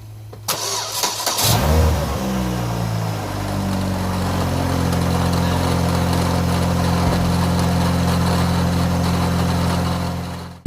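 Saturn Ion Redline's supercharged four-cylinder engine cranking and catching about two seconds in, flaring briefly, then settling to a steady idle. The exhaust joint on warped flanges has just been sealed with doubled gaskets and RTV to cure a loud exhaust leak.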